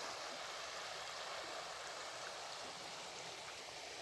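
Steady flowing water of a creek, an even rushing hiss.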